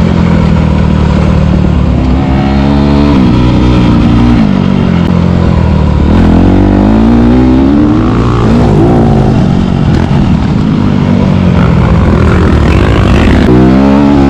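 Motocross bike engine being ridden hard, its revs climbing and dropping sharply again and again as it accelerates and shifts or shuts off. The engine note is loud and continuous.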